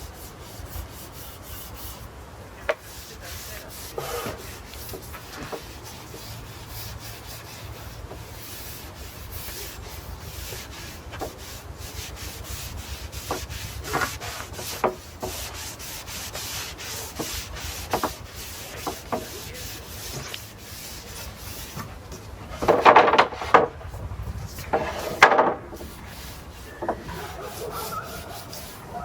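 Brush bristles rubbing oil into European larch planks in repeated strokes, with a steady low hum underneath. Two louder bouts of scraping come near the end.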